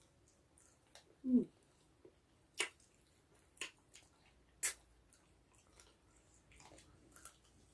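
Close-up wet mouth sounds of eating chicken feet: chewing and sucking, with three sharp smacking clicks about a second apart. There is a short closed-mouth "mm" about a second in.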